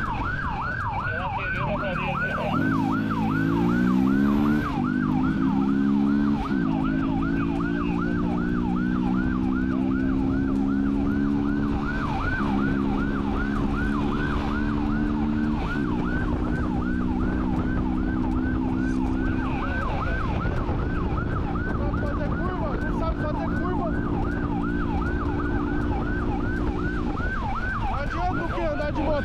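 Police siren wailing in a rapid, evenly repeating yelp, over a vehicle engine that climbs in pitch as it accelerates and then drops in steps as it shifts up through the gears.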